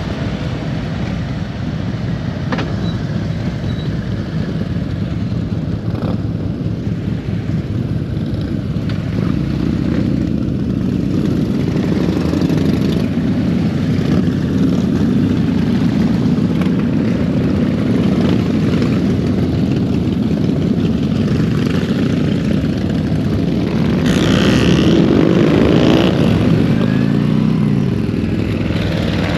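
Harley-Davidson Road King Special motorcycle under way, its V-twin engine running steadily. The sound grows louder about ten seconds in, and the engine note rises and falls near the end.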